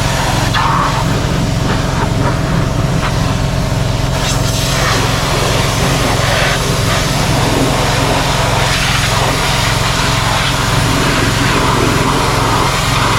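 An engine running steadily at a constant speed, with a hiss over it.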